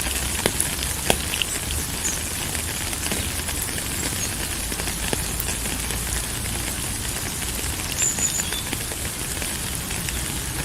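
Steady rain falling, a continuous hiss with scattered sharp drip ticks and a low rumble underneath.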